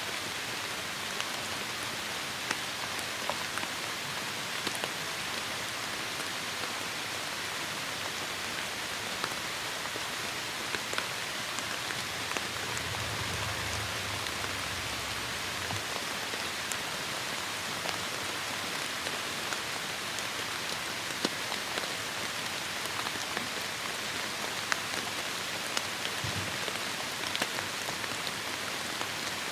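Steady heavy rain: a dense, even hiss with individual drops ticking through it. About halfway there is a brief low rumble.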